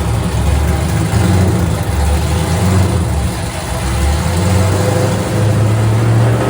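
Drift car's engine running loud and fairly steady, its revs wavering and creeping up slightly in the last couple of seconds.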